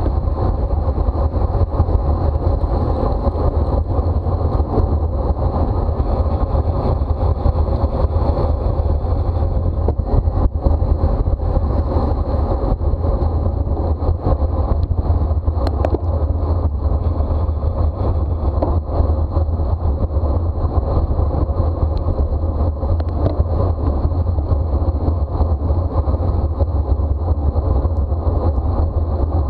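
Steady wind and road noise on a bicycle-mounted camera at racing speed, a continuous low rumble.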